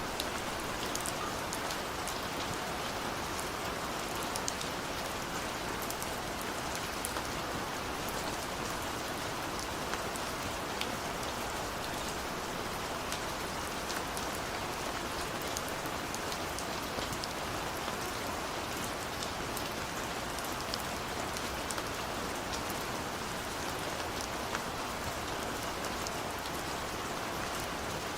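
Steady rain on a window, an even hiss with many individual drops ticking against the glass.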